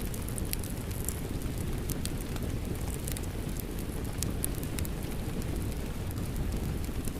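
Rain and a crackling fireplace mixed together: a steady low rush of rain under frequent small, sharp crackles and pops from the fire.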